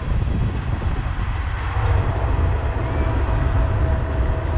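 The last cars of a mixed freight train rolling past, a steady low rumble of steel wheels on the rails. A faint steady whine comes in about two seconds in.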